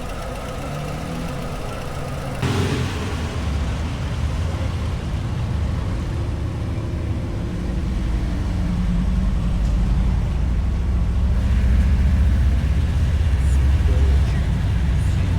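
Harley-Davidson Low Rider ST's 117 cubic-inch V-twin engine running, stepping up sharply in level about two and a half seconds in and then growing gradually louder as the bike gets under way.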